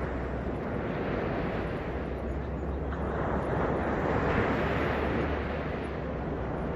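Ocean surf washing onto the beach: a continuous rush of breaking water with a deep low rumble, swelling a little toward the middle.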